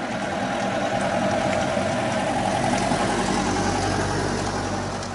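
A machine running steadily, with a constant hum and a low drone beneath it.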